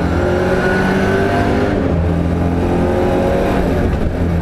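Rally car engine heard from inside the cockpit, accelerating hard with a rising pitch. About a second and a half in the pitch drops with an upshift, then climbs again through the next gear.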